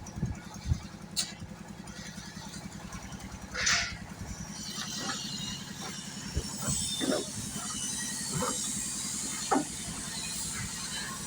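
A small engine running steadily with an even, fast pulse, with scattered knocks and clicks over it.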